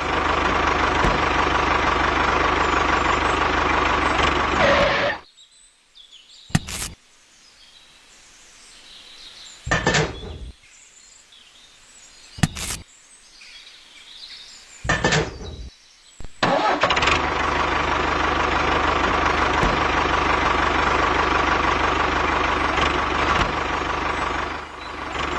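A motor running steadily for about five seconds, then stopping. Four brief bursts follow over the next ten seconds, and it runs steadily again from about sixteen seconds in.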